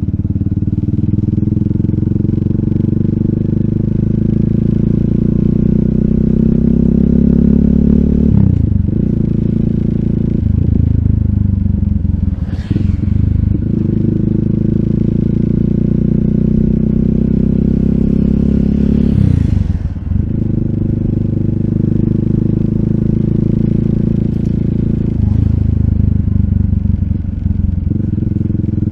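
RUSI Classic 250Fi motorcycle engine running through an Eli's Muffler full exhaust with a slip-on bullet pipe, under way. Its note climbs as the bike accelerates, then drops sharply at each gear change, several times over.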